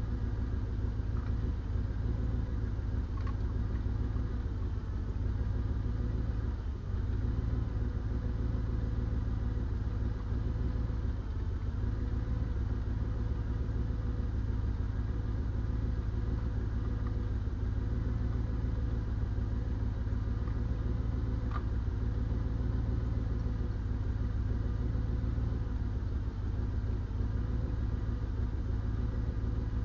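Diesel engine idling steadily at an even, unchanging speed.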